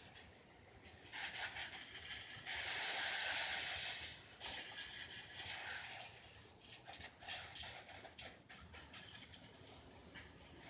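Garden hose spraying water onto a dirt bike: a hissing spray that is loudest for about a second and a half a few seconds in, then spatters on and off.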